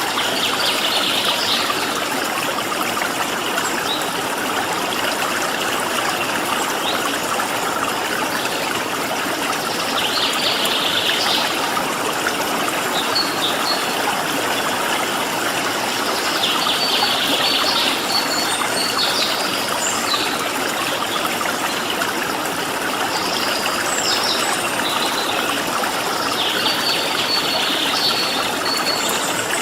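Steady rush of flowing stream water, with small songbirds chirping in short bursts every few seconds.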